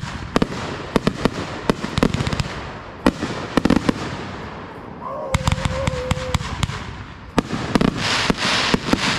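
Aerial fireworks going off in a fast combination: many sharp bangs in quick succession over continuous crackling, with a brief steady tone about halfway through.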